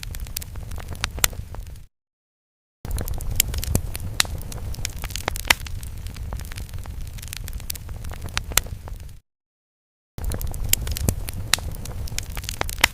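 Fire sound effect: a low rumble of flames with sharp crackles and pops. It cuts out to total silence twice for about a second, around two seconds in and again around nine seconds in, where the loop restarts.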